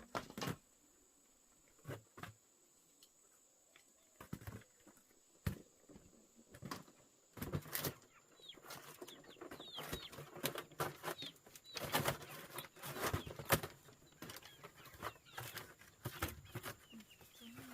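Irregular knocks and clatter, with chicks peeping on and off from about eight seconds in.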